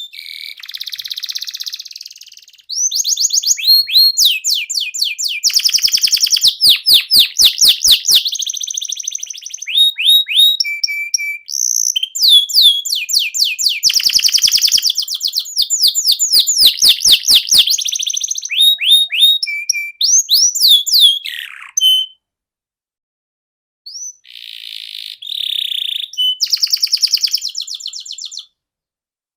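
Canary singing loudly: long rolling trills of fast-repeated sweeping notes mixed with short whistles, broken by a pause of about two seconds before the song starts again.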